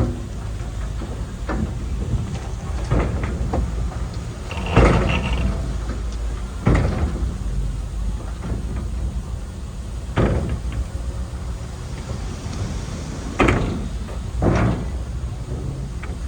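Earthmoving machinery: a diesel engine running with a low steady rumble, broken by about seven loud metallic clanks or bangs at irregular intervals, the loudest about five seconds in.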